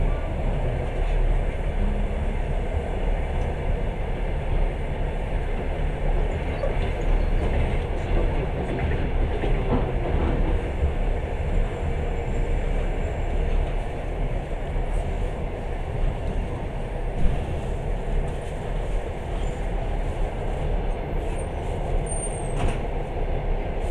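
Passenger train running at speed, heard from inside the carriage: a steady rumble of wheels on the rails, with one brief louder knock a little past the middle.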